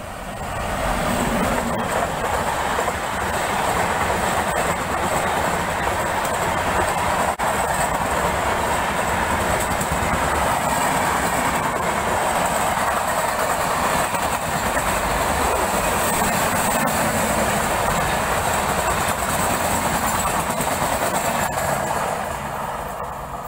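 Express train hauled by an electric locomotive passing through a station platform at speed. Its coaches make a loud, steady rush of wheels on rail with a clickety-clack, building up in the first second and fading as the last coach goes by near the end.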